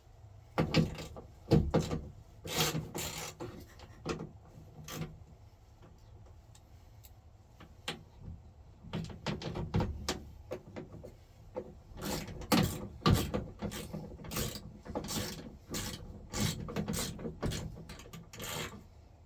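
Hand work on a truck's door latch mechanism: irregular metal clicks, knocks and scraping, in clusters with a quieter pause partway through.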